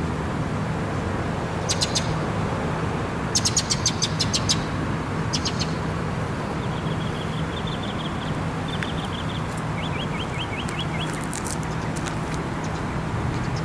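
Small birds chirping, with quick runs of high ticking notes, a trill and a series of short falling chirps, over a steady low hum.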